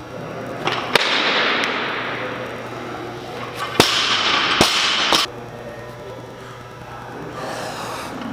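A loaded barbell with bumper plates dropped onto a lifting platform after snatches: two sharp bangs about three seconds apart, each followed by a second or two of clattering noise that fades out.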